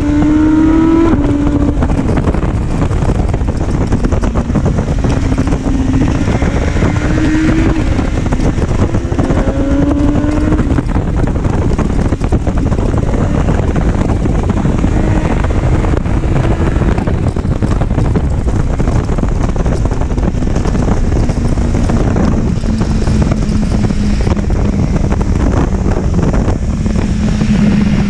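Motorcycle engine accelerating through curves, its note rising in short climbs several times in the first ten seconds, then holding steadier and dropping slightly near the end. Heavy wind buffeting on the microphone.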